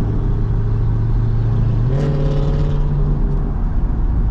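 Jeep Grand Cherokee SRT V8 engine pulling steadily over wet-road tyre noise, its note stepping up in pitch about two seconds in as the revs rise, with a short hiss at the same moment.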